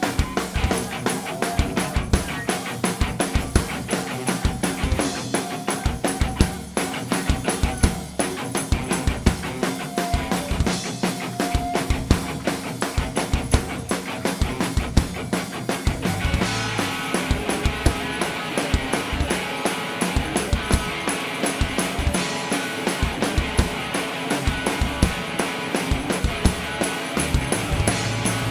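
Live rock band playing an instrumental passage: a fast, driving drum beat with bass and guitar. About sixteen seconds in, the band fills out and gets brighter.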